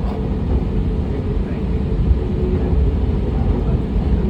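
Airliner cabin noise: a steady low rumble of the jet engines and airframe heard from inside the passenger cabin, with a faint steady hum.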